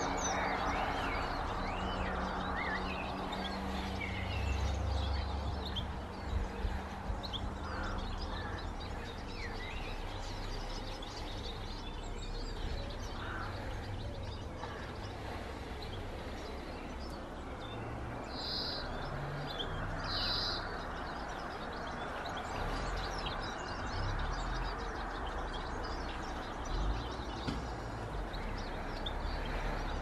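Small garden birds chirping and calling around seed feeders, many short high chirps throughout, with two louder calls about two seconds apart a little past the middle. A steady low rumble runs underneath.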